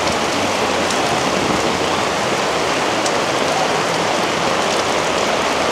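Heavy tropical-storm rain pouring down steadily, a dense, even hiss.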